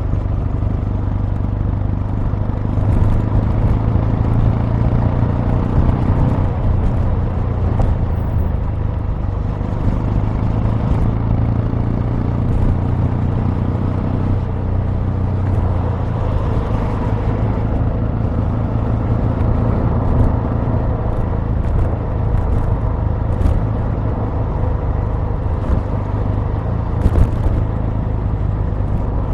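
Exhaust note of a Kawasaki W800's air-cooled parallel-twin engine running steadily, with the engine speed shifting a few times.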